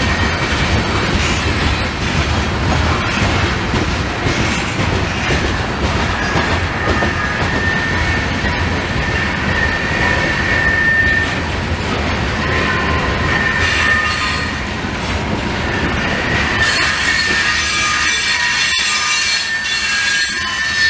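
Loaded grain hopper cars of a freight train rolling past, a steady rumble of wheels over the rails with high-pitched wheel squeal coming and going. The rumble eases off in the last few seconds while the squealing carries on.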